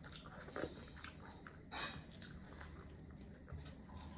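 Soft, close-up chewing and mouth smacking of a person eating chicken curry, with a few short wet smacks about half a second and about two seconds in.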